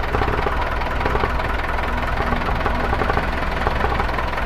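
Boom truck's engine idling steadily with the PTO engaged, driving the hydraulic pump that lowers the outrigger jack.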